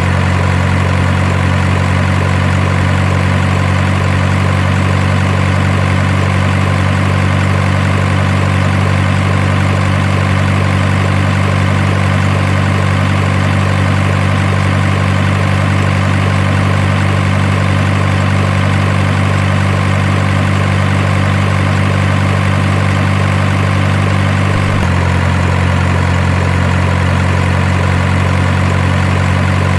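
Truck engine sound idling steadily, with a slight change in its low note near the end.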